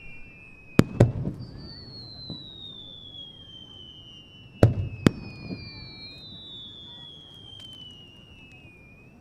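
Distant fireworks shells bursting: two pairs of sharp bangs, one pair about a second in and another about four and a half seconds in, each trailing off in a low rumbling echo. High whistling tones slowly fall in pitch over several seconds in the background.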